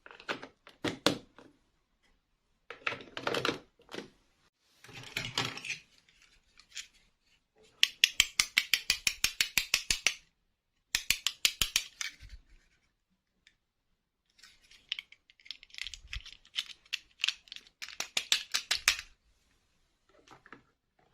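Small plastic toy pieces and packaging being handled: scattered clicks and rustling, with two runs of rapid clicking at about nine clicks a second a little past the middle.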